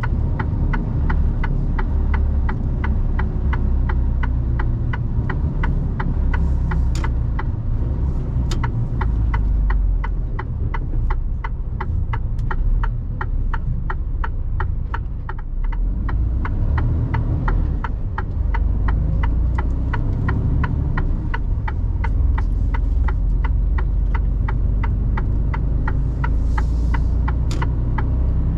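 Mercedes Actros truck's turn-signal indicator ticking steadily inside the cab, a few ticks a second, over the low drone of the engine and road. The ticking pauses for a couple of seconds about halfway through, then starts again.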